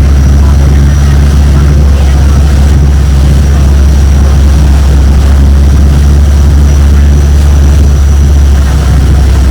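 Longtail boat's engine running loud and steady at constant speed, a deep, unbroken sound with no change in pitch.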